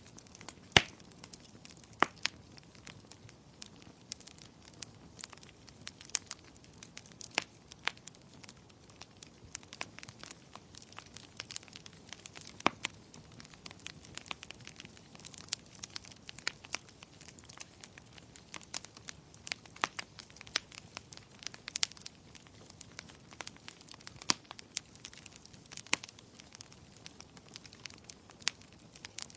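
Wood fire crackling in a fireplace: irregular sharp pops and snaps over a faint steady hiss, with the loudest pop about a second in.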